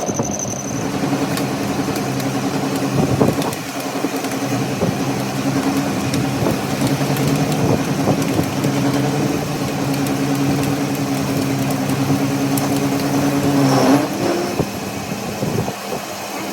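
A machine's motor running steadily with a low hum, which bends in pitch and cuts off about fourteen seconds in.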